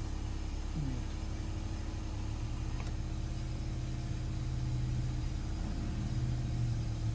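Toyota RAV4 engine idling steadily during an idle-relearn after the battery was reconnected, with a low hum that strengthens a couple of seconds in.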